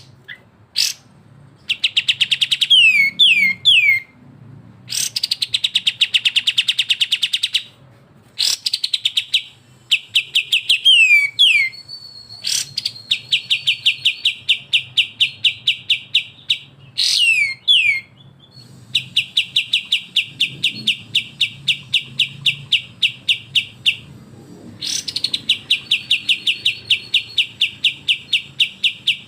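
Kapas tembak and cucak jenggot birds giving 'besetan' calls: long runs of fast, evenly repeated chattering notes, broken by short falling whistled slurs and a few brief pauses. A faint low hum lies underneath.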